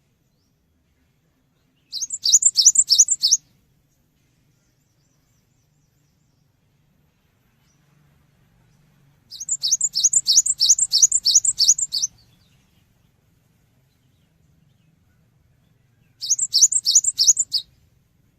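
Cinereous tit (gelatik batu) singing three bursts of quick, evenly repeated high notes, about four to five a second. The middle burst is the longest.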